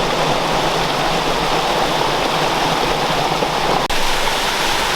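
Steady rush of fast, high-running creek water and waterfalls swollen by recent rain, with one brief break about four seconds in.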